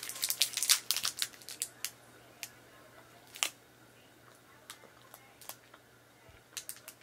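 Plastic wrapper of an Australian Milky Way chocolate bar crinkling and tearing open, in a dense run of crackles for the first two seconds, then a few scattered crackles.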